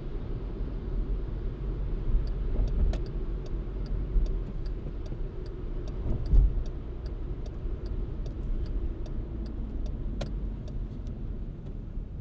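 A car driving on snowy city roads: a steady low rumble of engine and tyres, with light, regular ticking about three times a second from about two seconds in until near the end, and a low bump a little past the middle.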